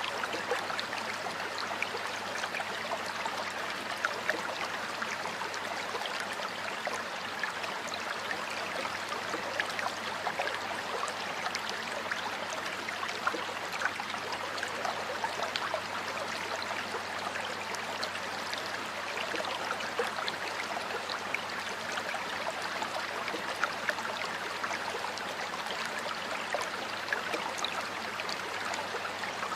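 A stream of water flowing and splashing steadily, with many small droplet splashes.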